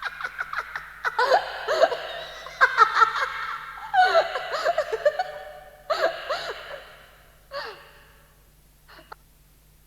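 A person's voice making a quick run of short, pitched vocal bursts like gasping laughter, dying away about seven or eight seconds in, with one last short sound near nine seconds. A faint steady low hum from the tape sits underneath.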